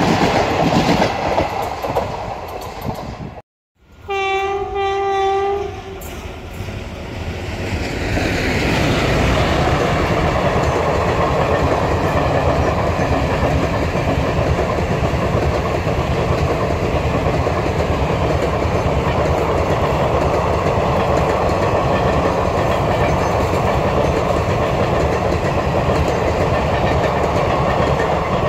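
Train running past, then after a short silent break a locomotive horn sounds one steady note for about two seconds. A long passenger train of ICF coaches then runs past on the track, a steady loud rumble and rattle of wheels and coaches.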